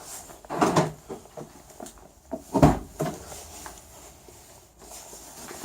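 Handling knocks and clunks in a car before the engine is started. The loudest is a deep thud about two and a half seconds in, and there is no steady running sound.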